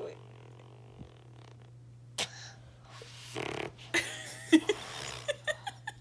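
Baby blowing raspberries against an arm, making wet, sputtering fart-like noises: one sharp pop, then a run of several short sputters in the last few seconds.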